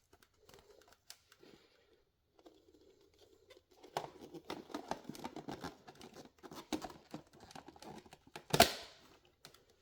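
Plastic parts of a cordless stick vacuum being handled and fitted together: scattered small clicks and rattles that grow busier about four seconds in, with one louder click near the end.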